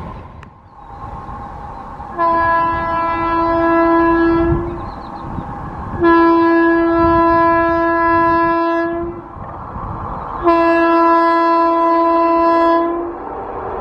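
Indian Railways train horn sounding three long, steady blasts of a single note, over the low rumble of an approaching train.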